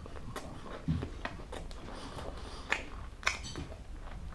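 Person chewing crispy fried food with the mouth closed: a handful of sharp crunches at irregular times, loudest about a second in and around three seconds in.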